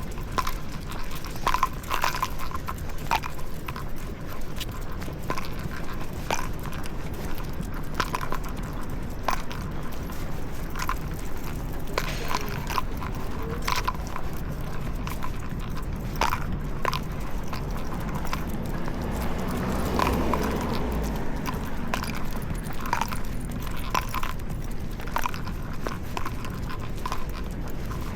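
Footsteps and sharp clicks on pavement, irregular, about one a second, over a steady low rumble of street noise, with a brief broader swell of noise about two-thirds of the way through.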